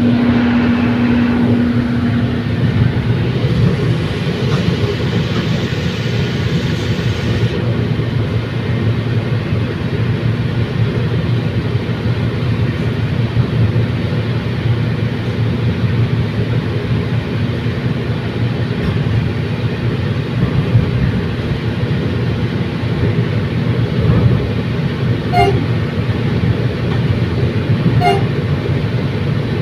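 Commuter train running with a steady rumble of engine and wheels, opening with a horn note held for about two seconds. A hissing sound rises over the rumble for a few seconds soon after.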